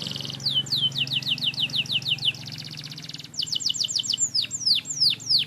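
Canary singing: a quick run of down-slurred whistled notes, a rapid buzzy trill about two seconds in, then fast notes that slow into longer, deeper down-sweeps near the end.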